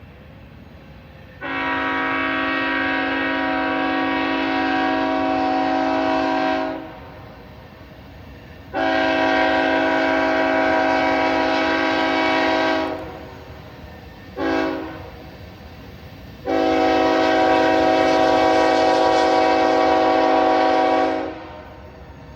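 Freight locomotive's air horn sounding a chord in the grade-crossing pattern: long, long, short, long. This is the standard warning of a train approaching a road crossing.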